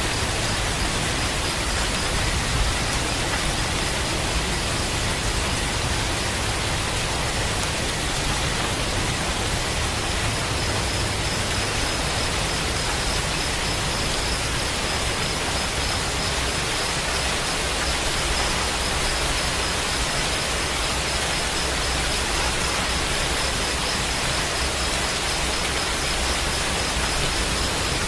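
Steady, heavy rainfall: a dense, even hiss with no separate drops or pauses.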